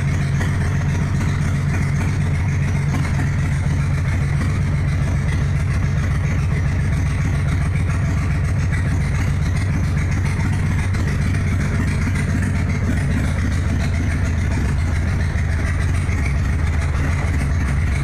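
Motorcycle engine running steadily, a constant low drone with no breaks.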